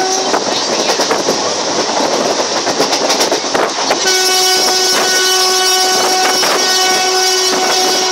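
Express train running at speed, heard from inside a coach: wheels rattle and clack over rail joints. For the first four seconds or so the horn is silent, then the locomotive's horn sounds again about four seconds in as one long, steady blast.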